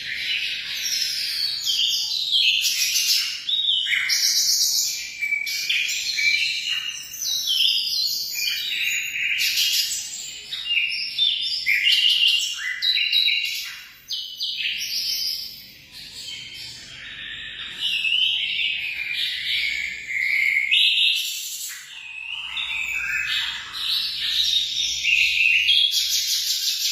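A group of munias (emprit) chirping continuously, many short, high, overlapping chirps at once, with a couple of brief lulls.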